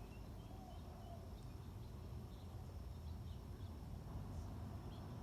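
Faint, scattered chirps of small birds over a steady low background rumble.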